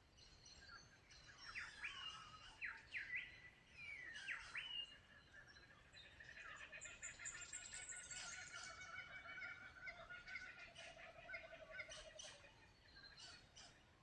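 Faint birdsong: a few quick calls that sweep up and down in pitch in the first few seconds, then a longer busy stretch of warbling, chattering song from several birds that fades near the end.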